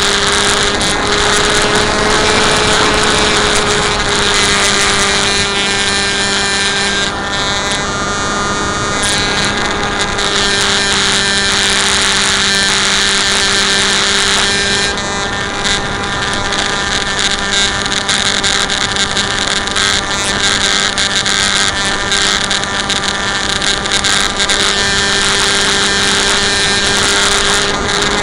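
Electric motor and propeller of a Bixler RC plane running with a steady whine, mixed with wind rushing over the microphone.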